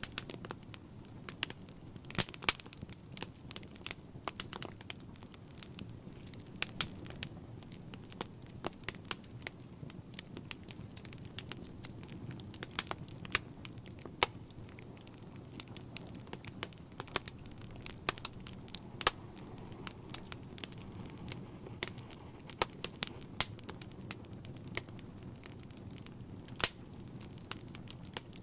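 Wood fire in a fireplace crackling, with frequent irregular sharp pops over a steady low rush of the burning.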